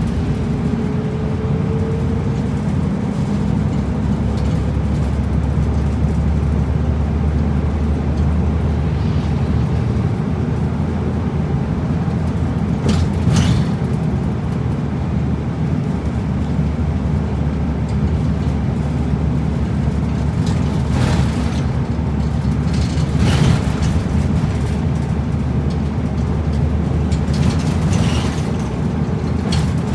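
Route bus engine and road noise heard from inside the cabin: a steady low rumble as the bus drives along, with a few brief hisses.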